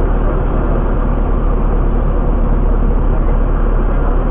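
Steady drone of a Piper Warrior's four-cylinder Lycoming engine and propeller, heard inside the cockpit.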